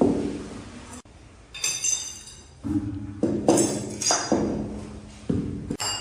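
Ceramic tiles knocking and clinking as they are handled and set, about eight separate knocks, two of them, about a second and a half in and about three and a half seconds in, ringing out briefly with a high tone.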